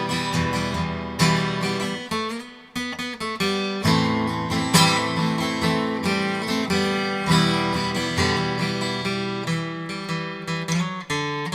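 Acoustic guitar strummed in rhythmic chords: an instrumental break between sung verses. The strumming briefly thins and softens about two and a half seconds in, then resumes at full strength.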